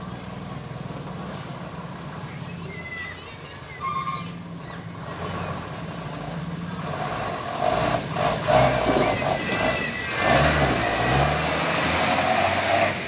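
Heavy truck engine running. It grows louder about halfway through, and its revs rise and fall near the end. There is a brief knock about four seconds in.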